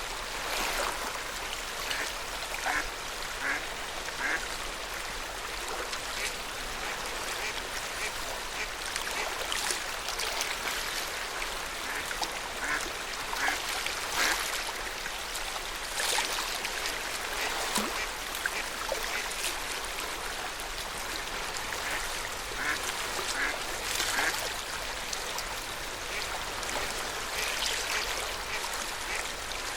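Lake water lapping and splashing at the shore, with clusters of short bird calls, such as waterfowl, now and then.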